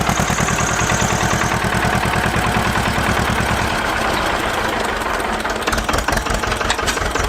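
A small engine running with a rapid, even firing beat, turning slightly uneven near the end.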